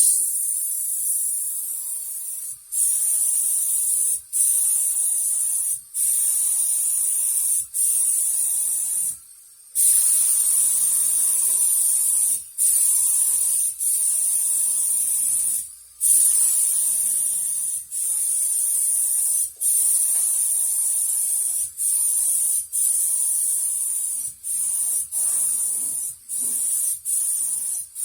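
Paint being sprayed onto a car body: a steady, high hiss in passes of one to two seconds, broken by many short breaks and one longer pause about nine seconds in.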